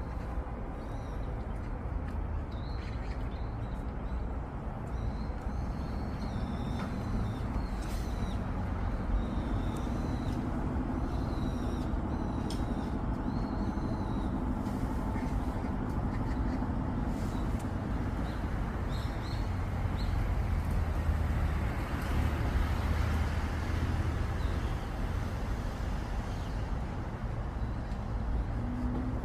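Small birds chirping in short, repeated calls over a steady low rumble; the chirps come thickly in the first half and again briefly in the middle.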